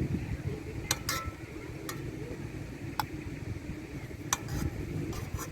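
A handful of light, irregularly spaced clicks and clinks of small hard objects, one with a brief ring, over a low steady rumble.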